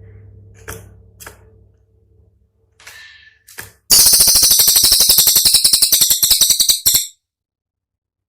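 Cililin bird song: a few faint clicks and call notes, then about halfway in a loud, very rapid rattle of sharp, high notes, about ten a second for some three seconds, that stops abruptly.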